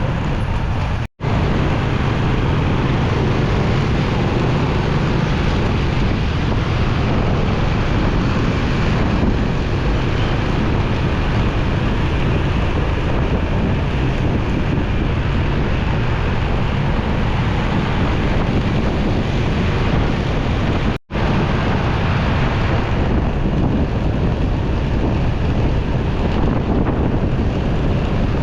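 Wind rushing over the microphone on a moving motorcycle, with steady engine and road noise underneath. The sound cuts out for a split second twice, about a second in and again some twenty seconds later.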